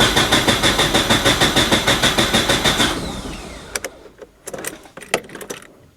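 Starter motor cranking the newly installed engine of a Subaru Impreza for about three seconds: an even, pulsing turn-over with a steady whine, but the engine does not fire, because the fuel pump is not running. A few sharp clicks follow.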